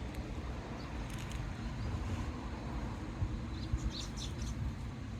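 Strong wind rumbling steadily on the microphone, with a few faint high bird chirps about three and a half seconds in.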